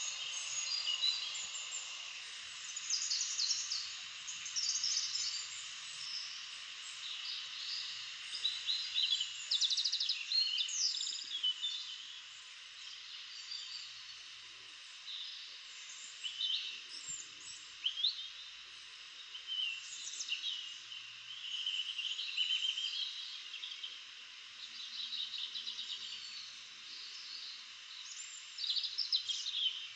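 Small songbirds chirping and trilling, many short calls and quick rattling trills overlapping one another, over a steady high hiss.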